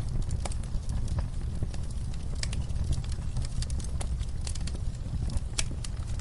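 Campfire crackling: sharp, irregular pops and snaps from the burning wood over a steady low rumble.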